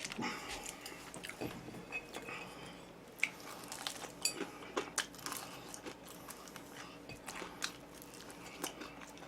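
A person eating close to the microphone: chewing and biting, with irregular small crunches and clicks.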